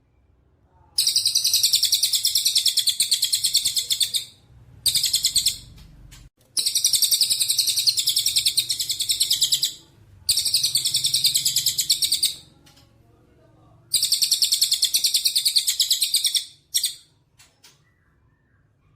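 A small songbird singing a fast, high-pitched rattling trill, in about five phrases of one to three seconds with short pauses between them.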